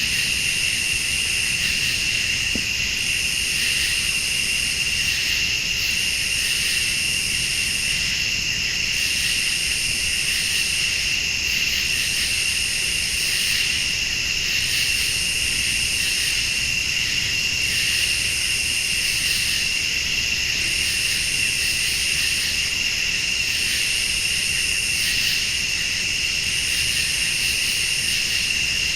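Night chorus of crickets and late-summer insects trilling steadily. A higher-pitched insect call swells and breaks off about every three seconds.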